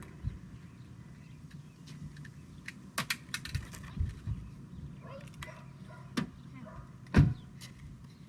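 Plastic toys and packaging being handled: scattered clicks and knocks, with a louder thump about seven seconds in.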